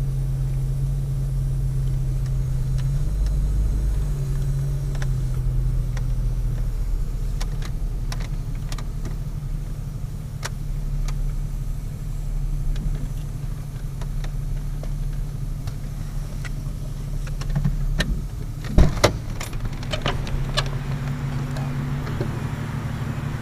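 Car engine idling steadily, heard from inside the cabin. There are a few sharp knocks and clicks about 19 seconds in, while the hum carries on.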